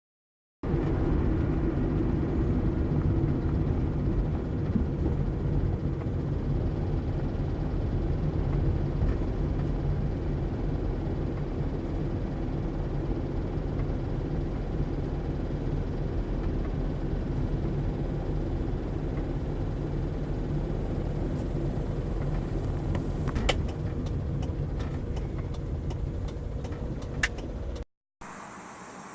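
An engine running steadily with a low, even rumble, with a few sharp clicks near the end before it cuts off abruptly.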